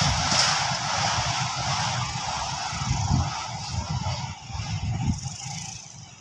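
Passenger train running away along the track, the rush of its wheels on the rails fading steadily into the distance.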